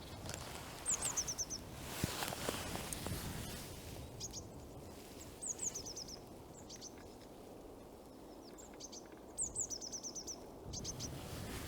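A small songbird calling: three quick series of short, high, falling notes, with single high notes between them, over a steady outdoor hiss. A brief rustle about two seconds in.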